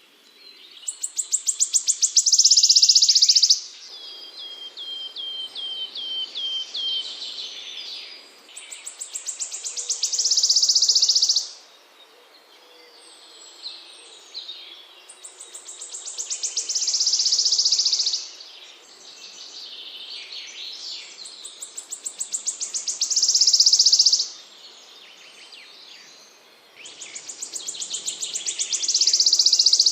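A small songbird repeating a fast, high trill that builds in loudness over a few seconds, five times about six seconds apart. Between the first two trills comes a run of short falling notes.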